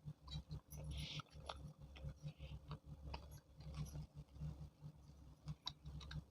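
Close-up chewing and wet mouth sounds of a person eating chole bhature, with irregular soft thumps and small clicks.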